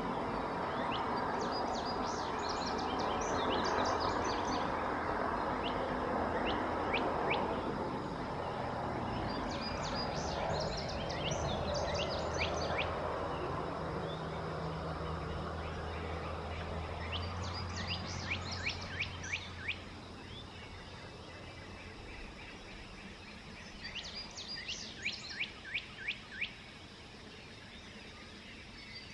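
A songbird repeating a song phrase of quick, rapidly repeated descending notes about every seven to eight seconds, four times. Underneath is a steady low rumble and hiss that fades away about two-thirds of the way through.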